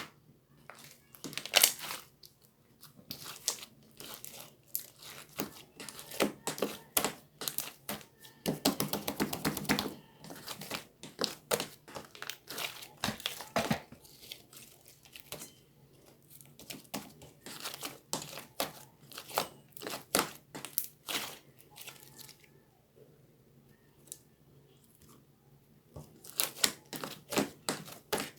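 Irregular crinkling and sharp clicking handling sounds close to the microphone, coming in busy clusters with quieter gaps between them.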